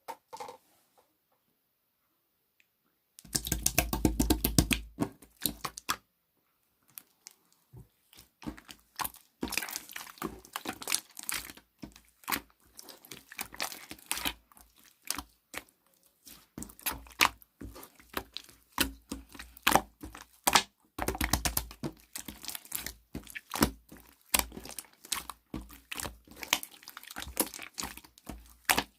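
Slime being squished, folded and pressed by hand, giving dense crackling clicks and small pops. It starts a few seconds in and stops briefly for about a second before going on.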